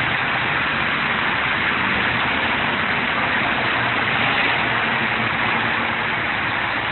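Steady rain making an even hiss, with a faint low hum underneath.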